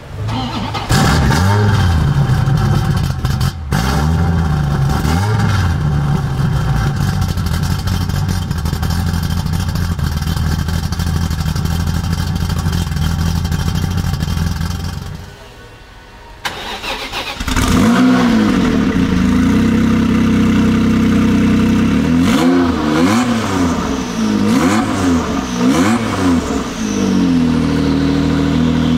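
A GTA Spano supercar's engine starts about a second in, blips once and settles into a steady idle, fading out around fifteen seconds. After a short gap a Jaguar XJ220's twin-turbo V6 starts and is revved several times in quick succession, then holds a higher idle near the end.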